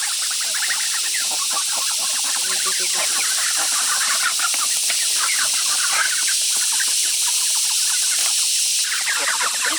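Penned poultry, likely ducks, calling rapidly and in overlapping bursts as birds are caught by hand: many short, agitated calls at once.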